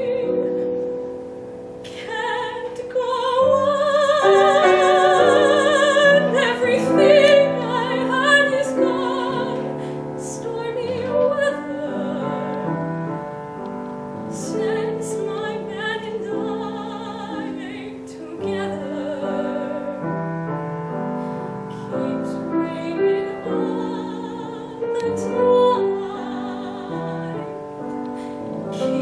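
A woman singing a slow ballad with wide vibrato to piano accompaniment, her long held notes loudest about four to eight seconds in, with the piano chords carrying on under and between her phrases.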